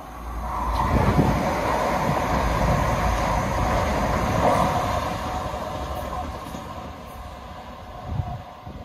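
Class 444 Desiro electric multiple unit passing at speed beneath an overbridge. A rushing rumble swells about a second in, holds for a few seconds, then fades as the train runs away down the line.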